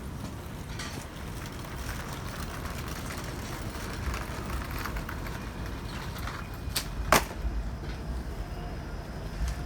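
Busy city street: steady traffic noise with wind rumbling on the microphone. A sharp click or knock, the loudest sound here, comes about seven seconds in, just after a fainter one.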